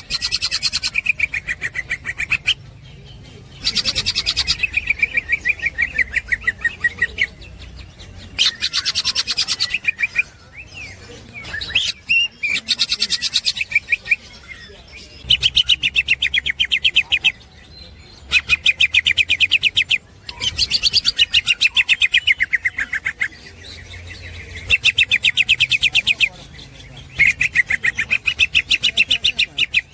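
Green leafbird (cucak hijau) singing its 'ngekek' song: about nine bouts of fast, chattering repeated notes, each lasting two to three seconds and often falling slightly in pitch, separated by short pauses.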